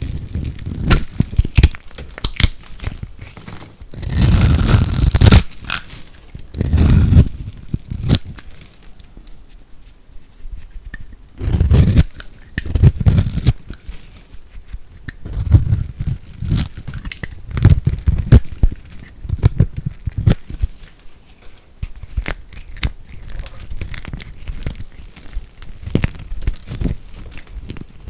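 Dry soap being cut and crushed by hand, giving irregular crisp crackling and crunching, with several louder crunches lasting about a second each.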